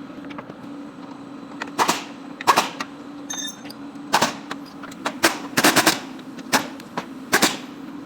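A string of sharp metallic bangs or knocks at irregular intervals, about seven of them, two close together midway, over a steady low mechanical hum.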